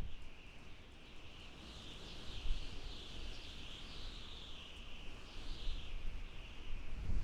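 Desert wind howling, with a high whistling tone that slowly rises and falls in pitch over low, gusty rumbling.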